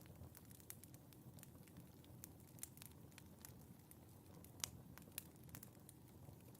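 Faint wood fire in a fireplace crackling, with irregular sharp pops and snaps over a low, steady rumble of the flames; the loudest pop comes about four and a half seconds in.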